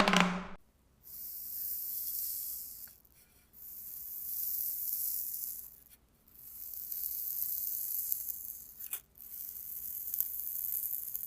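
A high-pitched hiss in four bursts of about two seconds each, with short pauses between them.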